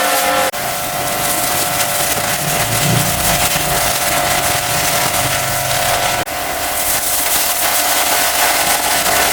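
High-pressure washer running: a steady hiss of water spray over a constant motor-and-pump whine. It breaks off for an instant twice, about half a second in and about six seconds in.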